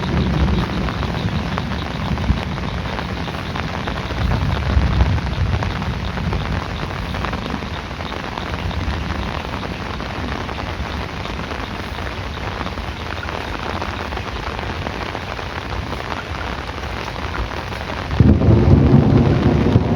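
Heavy rain falling steadily with low rolling thunder underneath, and a louder rumble of thunder setting in near the end.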